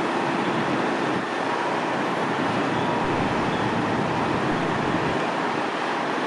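Steady vehicle rumble with no distinct engine note, holding an even level.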